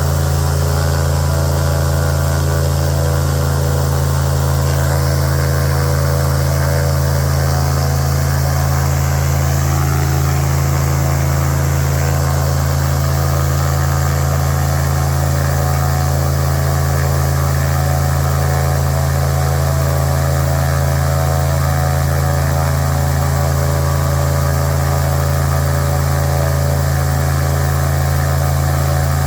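Airboat engine and propeller running steadily at high speed, really loud, during a long test run to check that the engine's water pump keeps it from overheating.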